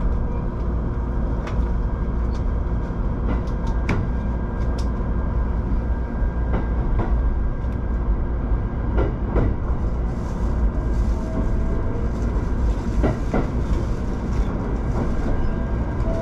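Shinano Railway SR1 series electric train running along the track, heard from inside the driver's cab: a steady low rumble with a faint steady whine and scattered short clicks and knocks.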